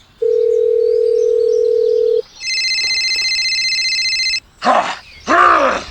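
Telephone sound effects: a steady low dial tone for about two seconds, then a high electronic ringing tone for about two seconds, followed by short vocal sounds near the end.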